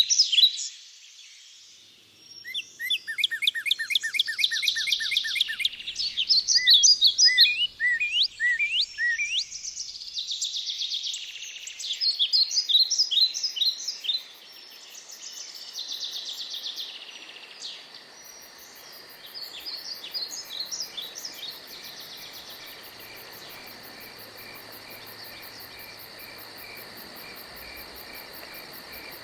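Several songbirds singing and calling in overlapping phrases, with quick repeated notes and trills. After about twenty seconds the birds fade and a steady, evenly pulsed insect trill carries on.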